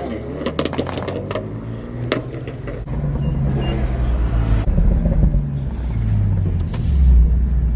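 Car engine running at low revs, its pitch stepping up and down several times as it is driven, with a few sharp cracks in the first two seconds.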